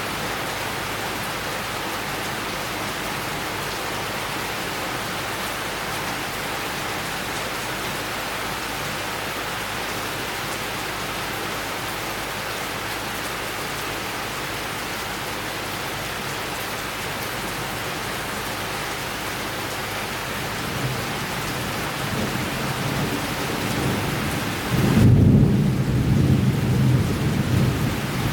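Steady summer rain falling in a thunderstorm. Rolling thunder rumbles low about twenty seconds in and is loudest over the last few seconds.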